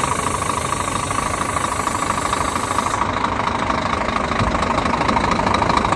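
Scania G 410 truck's 13-litre straight-six diesel engine running steadily.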